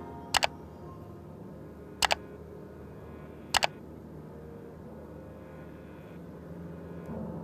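Three sharp double clicks, each pair a quick click-click, spaced about a second and a half apart.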